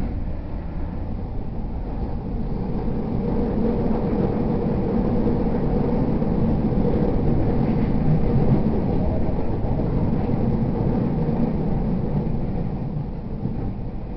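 Running noise inside an E231 series 0 subseries commuter train car: a steady rumble of wheels on rails and the car in motion. It grows a little louder toward the middle and eases slightly near the end.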